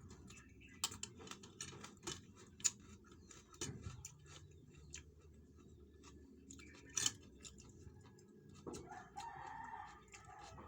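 A rooster crowing once for about a second and a half near the end, over scattered sharp clicks and taps.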